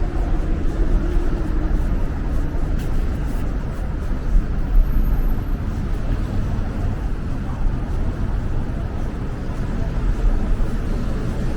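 Steady city street noise, mostly a low traffic rumble.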